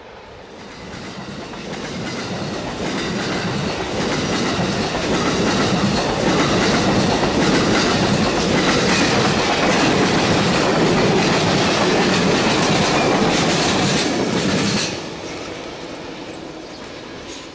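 Amtrak Superliner passenger train passing close by, with the steady noise of its cars and wheels on the rails. The noise builds over the first few seconds and holds, then drops suddenly about 15 seconds in to the quieter sound of a train moving away.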